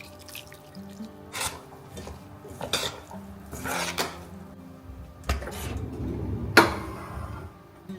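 Dishes and cutlery being handled: several separate clinks and scrapes of crockery and utensils, the sharpest near the end.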